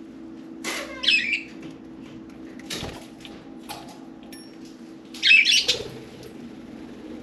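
Pet budgerigars chattering in short bursts, one about a second in and a louder one around five seconds in, with wing flutters among them.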